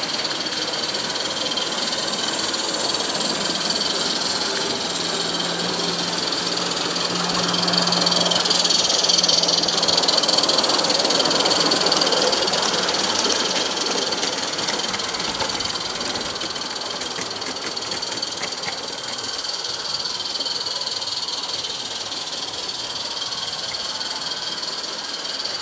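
A live-steam model Garratt locomotive running on a garden railway track with its train of wagons: a steady hiss and mechanical rattle that swells louder about eight to twelve seconds in, then eases off.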